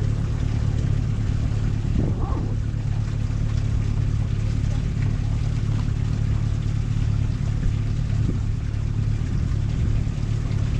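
Steady low engine drone of a vehicle underway, with a constant rushing noise over it.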